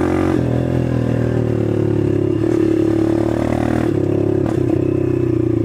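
Dirt bike engine running at a steady riding pace, its pitch dipping and rising a little, with a short clack about four and a half seconds in.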